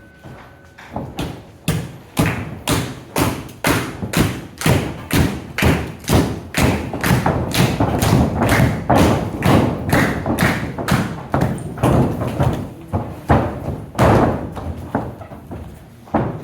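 A long run of heavy, even thumps on a wrestling ring, about two a second at first and quickening to about three a second, with one especially loud thump near the end before they thin out.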